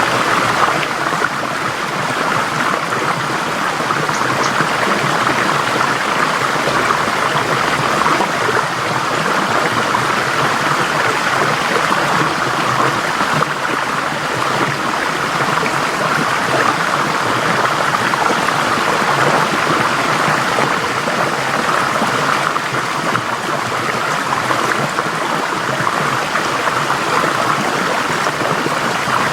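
Forest stream flowing steadily, water rushing and babbling over rocks.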